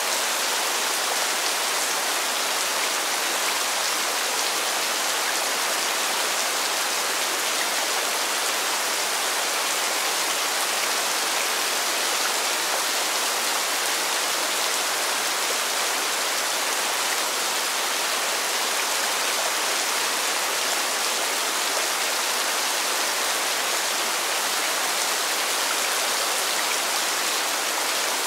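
Steady rain falling: an even hiss that holds constant throughout, with no thunder or single drops standing out.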